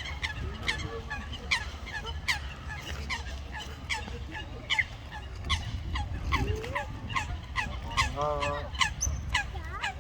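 Common moorhen chicks peeping: a steady run of short, falling peeps, two or three a second, with one longer wavering call about eight seconds in, over a low rumble.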